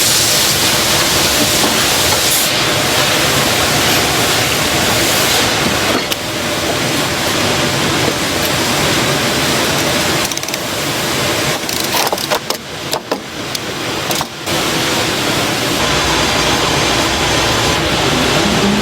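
Factory production machinery running with a loud, steady mechanical noise. About two-thirds of the way through it breaks up into a stretch of sharp clicks and brief gaps, then returns to steady running.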